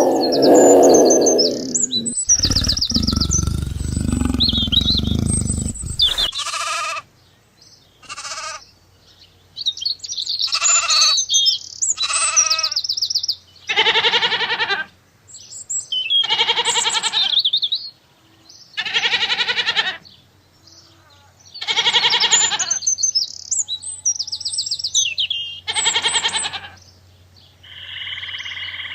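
Animal calls: a bleat at the start, a rough, noisy stretch for a few seconds, then a string of pitched calls about every two to three seconds, with birds chirping in between.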